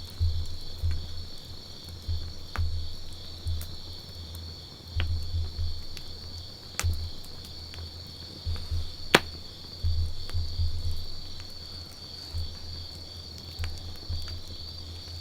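Wood campfire crackling, with scattered sharp pops and one much louder crack a little past the middle. A steady high-pitched trill continues throughout, and brief low rumbles come and go.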